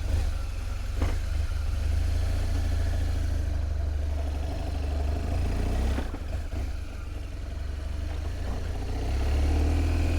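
A BMW R1200GS's boxer-twin engine running steadily under way, newly fitted with ignition coils to cure a misfire under acceleration. The engine note eases off about six seconds in and builds again near the end, with two brief clicks along the way.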